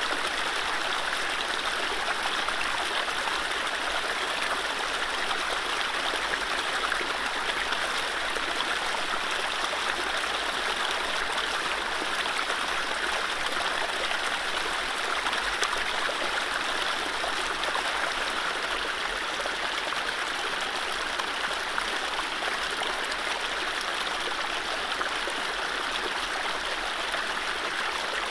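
Mountain stream flowing over low rapids: a steady, even rush of running water with no birdsong.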